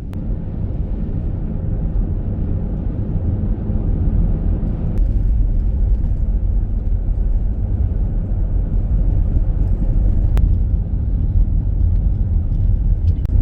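Steady low rumble of road and engine noise inside a moving vehicle, with a few faint clicks.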